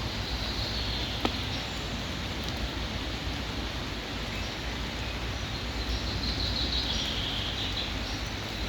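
Steady rain falling, a continuous even hiss with a few separate louder drops or drips, the sharpest about a second in.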